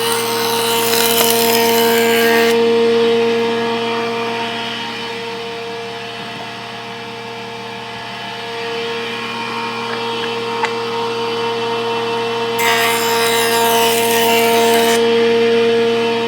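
A stationary woodworking power tool running with a steady hum while walnut boards are fed through it to true their edges. Two cutting passes come as louder hissing stretches: one at the start lasting about two and a half seconds, the other about twelve seconds in lasting about two seconds.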